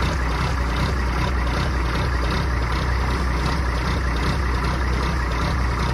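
Mack DM600 truck's diesel engine running steadily at an even, low idle after a cold start in 23-degree cold, with a constant low throb.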